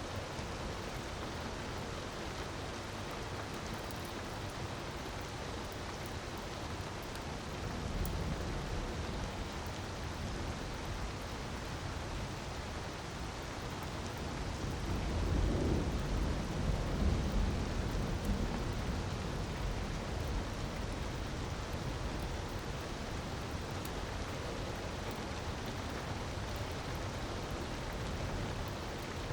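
Steady hiss of falling water, like rain or a waterfall, with a low rumble swelling about fifteen seconds in.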